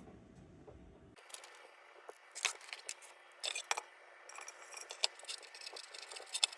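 Scattered light metallic clinks and taps from a small tin lantern and its parts being handled, with a few sharper ticks in the middle.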